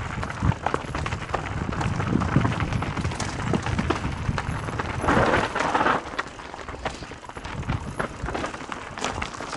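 Mountain bike rolling over a dirt trail: steady tyre noise with frequent clicks and rattles, and a louder rush of noise about five seconds in.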